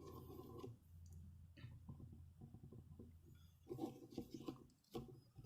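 Faint, irregular scratching and rubbing as a scratch-off lottery ticket is scraped off, with a few small clicks.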